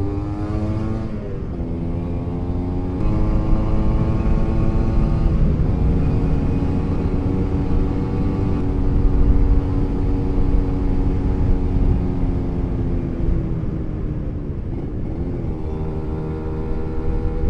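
Two-stroke Kawasaki Ninja single-cylinder engine running under way, its pitch climbing and dropping with several gear changes before holding steady for a while, over a low rumble of wind and road.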